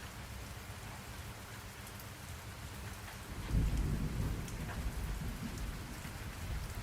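Steady rain falling, with a low rumble of thunder that swells suddenly about halfway through and fades over a couple of seconds.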